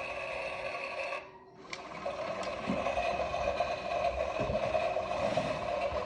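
Klein Miele toy washing machine running, its small battery motor turning the drum with a steady whine. The whine cuts out a little over a second in, starts again half a second later, and stops at the end.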